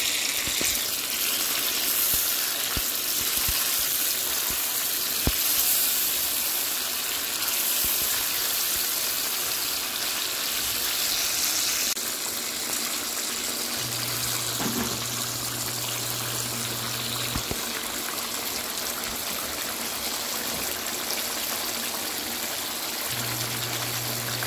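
Chicken and tomato puree sizzling in hot oil in a karahi, a steady frying hiss with a few short clicks of a spatula in the pan.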